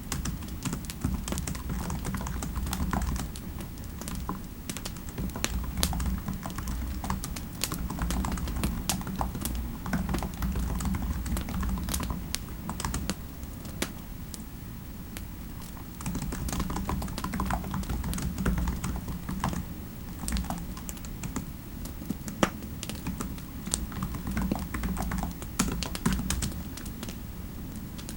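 Typing on a computer keyboard: quick runs of keystroke clicks with brief pauses between them, over a steady low rumble.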